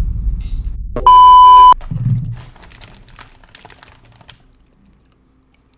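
A single loud electronic beep, a steady tone lasting under a second, about a second in, after a low rumbling noise.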